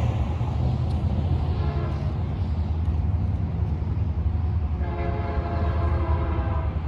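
Train horn sounding a chord of several notes: a short, faint blast about two seconds in and a louder blast of nearly two seconds near the end, over the steady low rumble of the passing train.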